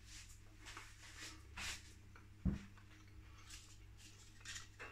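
Faint, irregular chewing of a warm cheese and chive mini quiche, with one short low thump about two and a half seconds in, over a faint steady hum.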